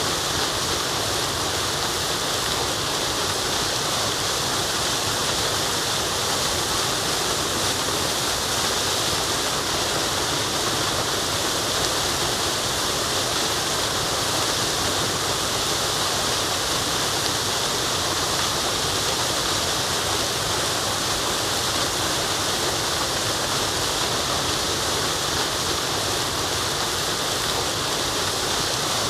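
Forest waterfall: a steady, even rush of falling water with a bright hiss on top, and no change in level.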